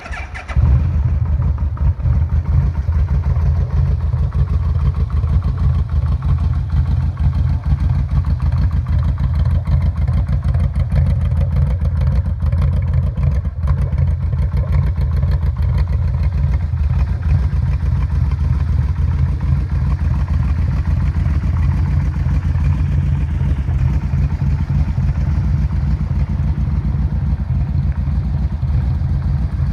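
2001 Yamaha V-Max's 1198 cc V4 engine starting on the button and catching within about half a second, then idling steadily on a cold start, not yet warmed up.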